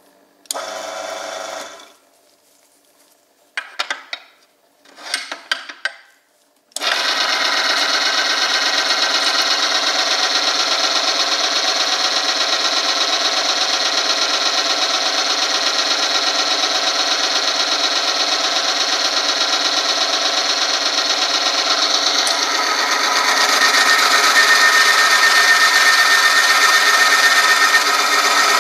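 Oil-film friction test machine running: a motor drives a part that rubs against a metal sample lubricated with the engine oil, giving a steady mechanical whirring and scraping. It starts suddenly about 7 seconds in, after a short steady burst and a few brief handling noises. Around 23 seconds in it grows louder and harsher as the load on the sample rises.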